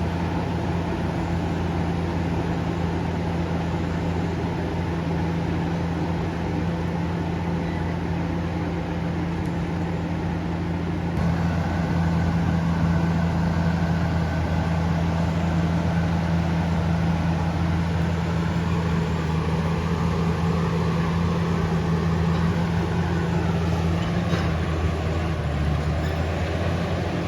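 Komatsu D68ESS bulldozer's diesel engine running steadily while pulling a heavy log. It grows louder about eleven seconds in and drops in pitch a few seconds before the end.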